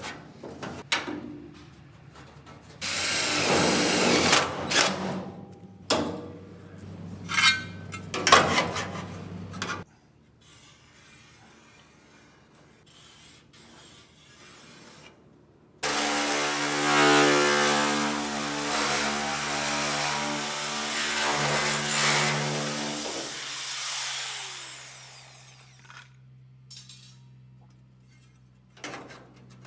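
A handheld power tool at work on sheet metal. First comes a harsh burst of a couple of seconds, then a few short bursts. About halfway through, the motor runs steadily for some seven seconds, then winds down with a falling pitch.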